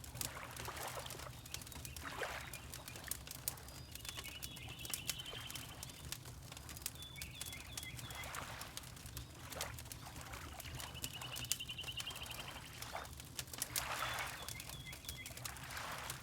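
Wood fire crackling with many small pops, water lapping in soft swells every few seconds, and a small bird singing a quick, high, repeated trill about four times.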